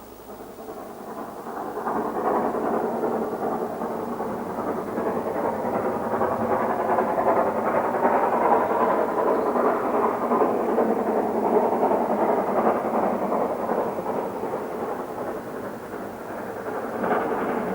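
Great Western King class steam locomotive running with its train: a continuous rushing noise of exhaust and rolling train that builds over the first two seconds, holds, and swells again near the end.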